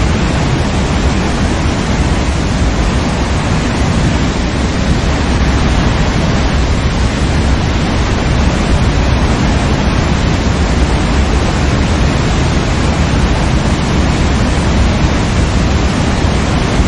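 Waterfall: a steady, loud rush of falling water, heaviest in the low end, with no change in level.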